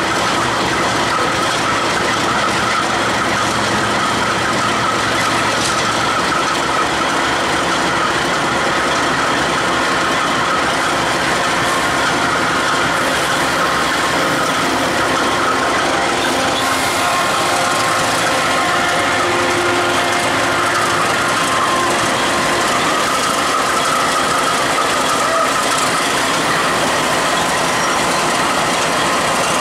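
Several diesel-electric freight locomotives passing close beneath, engines running, with steel wheels clattering on the rails. A steady high whine runs through it.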